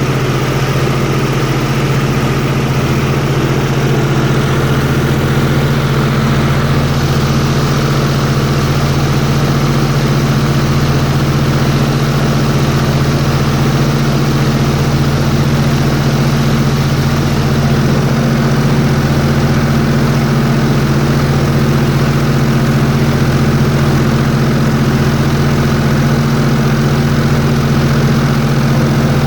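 Airboat engine and propeller running at a steady speed: a loud, even drone that holds the same pitch throughout.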